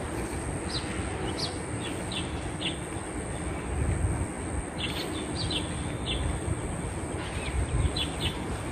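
Small birds giving short, high, quick chirps, a dozen or more scattered through, over a steady low rumble and a thin steady high tone.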